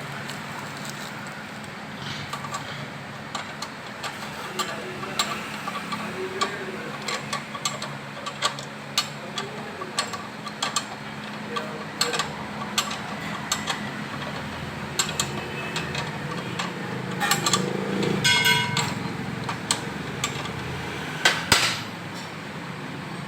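Metal tools and engine parts clinking, tapping and knocking at irregular intervals while work is done on a motorcycle engine, over a steady low hum. There is a short rattle about three quarters of the way through and a few louder knocks near the end.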